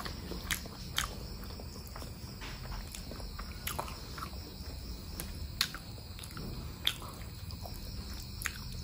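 Close-miked eating of mutton curry with rice: chewing, with about half a dozen sharp, wet mouth clicks and smacks spaced a second or more apart.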